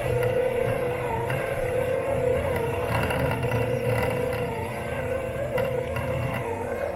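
Robot lawn mower's electric motors running with a steady whir, heard close up from on the mower, the pitch wavering slightly as it goes.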